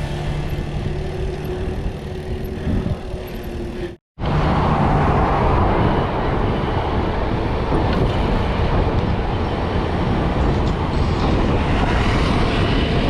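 Steady noise of riding a mountain bike on a body-mounted camera: wind on the microphone and tyres on the ground, cut off for an instant about four seconds in and then running on louder.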